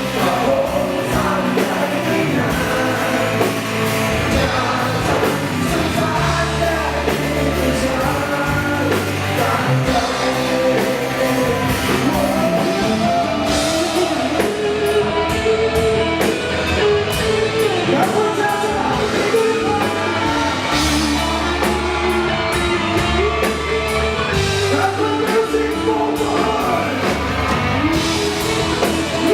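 Overdriven electric guitar playing a singing, vocal-style melody lead over a rock backing track with drums and bass.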